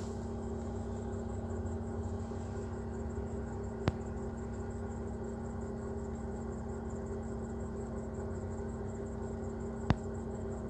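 Chery Amulet engine running steadily with an extra dry, scraping noise like metal rubbing on dry metal, and a slight whistle. The owner traces the noise to a worn bearing with heavy play in the air-conditioning compressor clutch. Two sharp clicks, one about four seconds in and one near the end.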